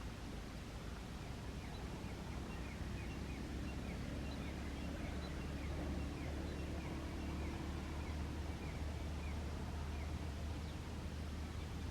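A bird chirping softly in a string of short calls, two or three a second, over a steady low outdoor rumble.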